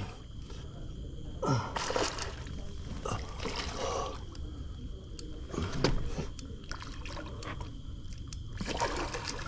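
Water splashing in about four short surges as a hooked catfish thrashes at the surface, mixed with a person gasping and breathing hard.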